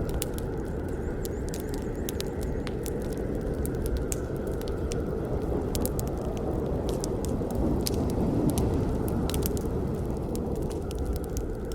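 Wood campfire burning: a steady low rush of flames with frequent, irregular sharp pops and crackles from the wood, swelling a little about eight seconds in.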